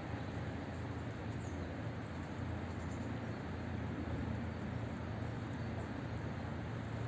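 Steady low outdoor background rumble, with a couple of faint, short high bird chirps about a second and a half and three seconds in.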